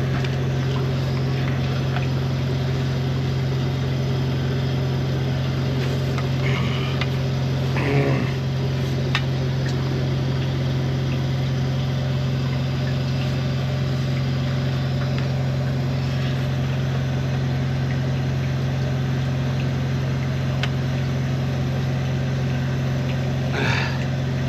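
High-pressure drain-jetting unit's engine and pump running at a steady pitch and level while the jet hose works through a silted pipe. A few brief fainter sounds come through around seven to eight seconds in and again near the end.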